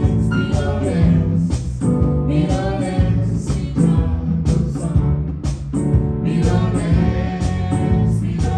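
Live band playing, with a voice singing over bass and a steady drum beat.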